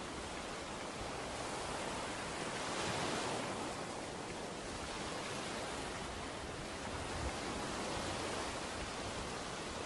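Ocean waves breaking and washing up a beach: a steady rush of surf that swells slightly about three seconds in.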